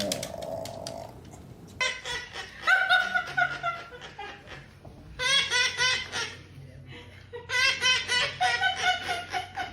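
Laughter in three bouts of quick ha-ha-ha pulses, starting about two, five and seven and a half seconds in.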